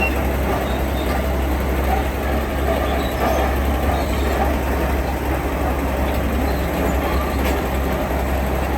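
Heavy diesel construction machine running steadily, a constant low engine rumble with no breaks.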